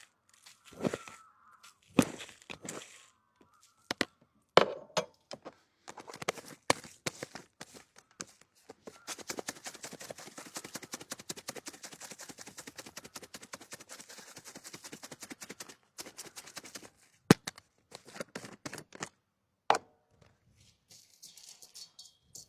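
Food-preparation handling sounds: a series of separate knocks and thunks, with a stretch of rapid scraping and clicking in the middle lasting several seconds.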